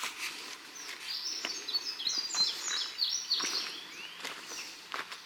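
Songbirds chirping outdoors: a flurry of short, high notes, busiest from about a second in to three and a half seconds, with a few light clicks in between.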